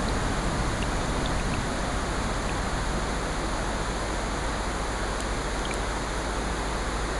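Steady, even mix of rain and ocean surf, with a few faint sharp ticks scattered through it.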